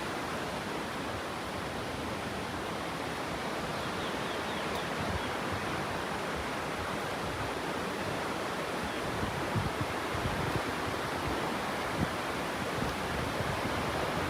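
Steady rush of flowing or falling water, a constant even hiss, with a few low bumps of wind on the microphone in the second half.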